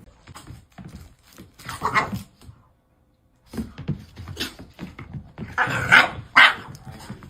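A dog barking in short separate barks, a first few about two seconds in and a louder run later on, the two loudest barks close together near the end.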